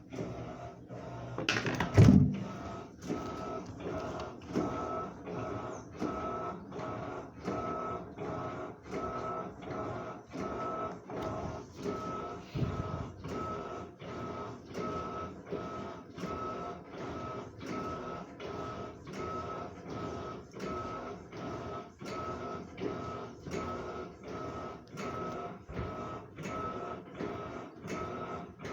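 Two agitator washing machines washing blankets: their agitators churn back and forth with a steady, rhythmic swishing pulse and a motor whine, and there is one loud knock about two seconds in.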